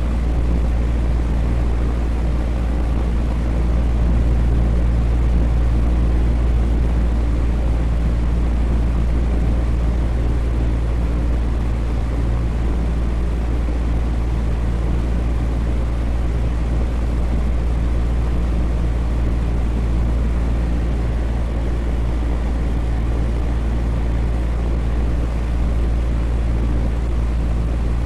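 Electric fan running steadily: a constant, even rush of air with a deep low hum underneath.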